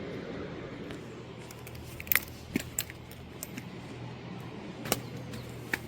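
Small stones clicking and clacking, as under footsteps on a rocky path or pebble beach, over a steady hiss. The clacks come in a scatter from about two seconds in and again near the end.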